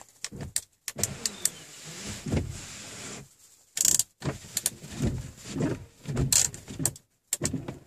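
Irregular clicks, knocks and rustling: handling noise, with no engine running yet.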